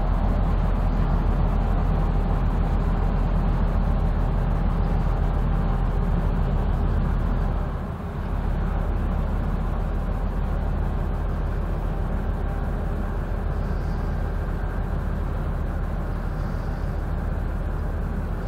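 Low, steady diesel engine drone of an inland motor vessel under way on the river, dipping briefly about eight seconds in.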